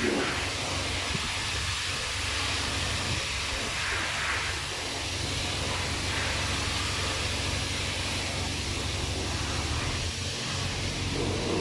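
Water spray from a car-wash hose hissing against the car's body, heard from inside the cabin, swelling and easing as the spray moves. A steady low hum runs beneath it.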